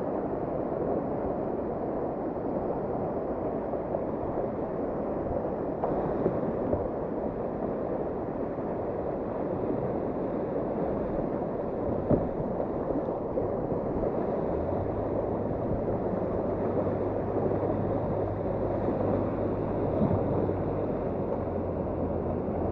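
Whitewater river rapid rushing steadily, with a few light knocks and a low hum that comes in about halfway through.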